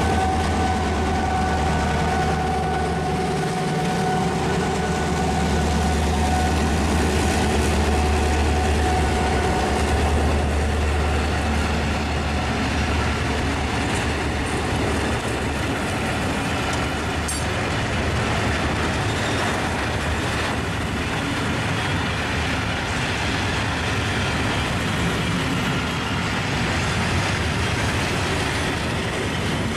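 HŽ series 2062 diesel locomotive (EMD two-stroke diesel) running close by with a low engine drone and a steady whine, fading after about ten seconds into the rumble and wheel clatter of loaded freight flat wagons rolling past.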